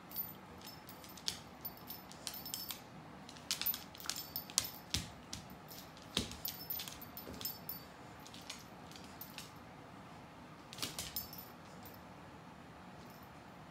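A small dog's claws clicking and scrabbling irregularly on a hardwood floor as it pounces and paws, with light metallic jingles mixed in. The clicks thin out over the last few seconds.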